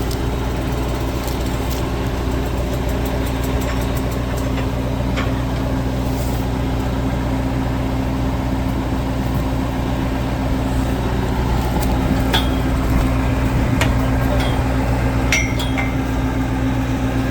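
Heavy off-road truck's diesel engine running steadily at a low, even speed, with a few light metallic clinks in the second half.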